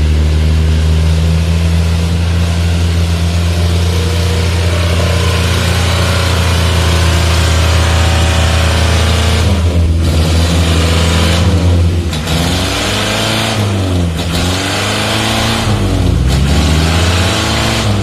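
4x4 truck engine running hard with a steady note, then revving up and down repeatedly over the last several seconds.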